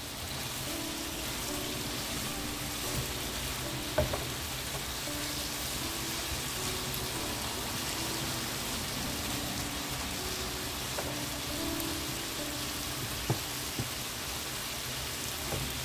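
Marinated chicken strips sizzling steadily in a non-stick frying pan. Two sharp clicks, about four seconds in and near the end, come from the tongs against the pan.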